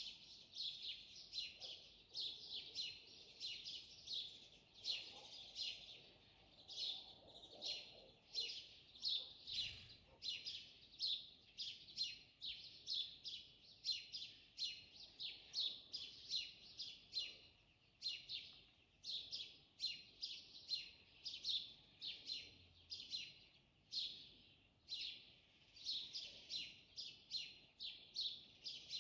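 Birds chirping in a steady morning chorus: quick, high, short chirps repeating several times a second, overlapping without a break.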